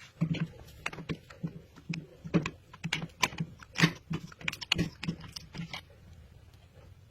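Irregular light clicks and taps, about two or three a second, that stop about six seconds in.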